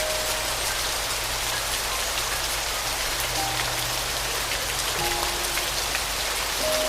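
Steady rain falling, an even hiss of drops, with a few soft, sparse sustained piano notes over a held low note.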